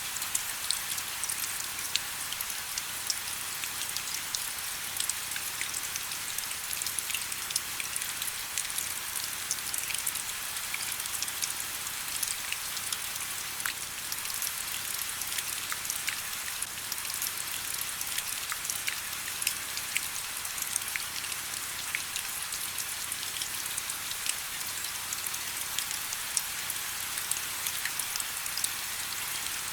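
Steady rain falling, an even hiss dotted with many individual drop ticks.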